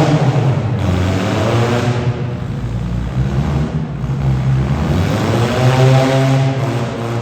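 Demolition derby car engines running loud and revving, with the pitch climbing twice: once right at the start and again about five seconds in.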